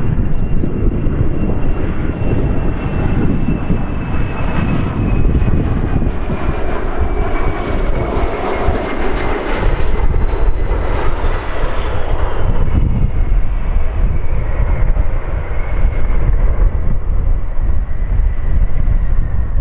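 Airliner's engines passing by with a steady loud rumble and a thin whine that slowly falls in pitch as the aircraft goes past. Gusty wind is buffeting the microphone.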